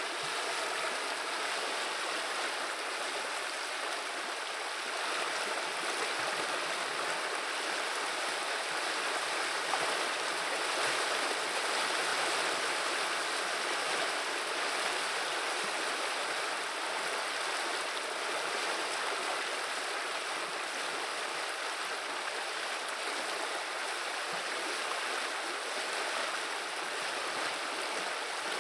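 A river running, its water babbling in a steady, even rush.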